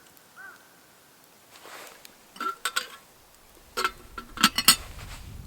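Metal camp utensils or cookware clinking together in two short clusters of quick knocks, each with a brief ring.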